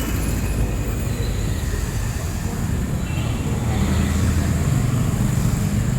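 City street traffic noise, a steady low rumble of vehicles, with one engine's hum growing louder about four seconds in as a vehicle comes closer.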